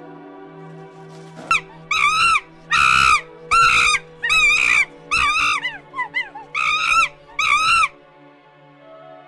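An animal calling shrilly about eight times in quick succession, each call short with a quickly wavering pitch, over a steady low hum.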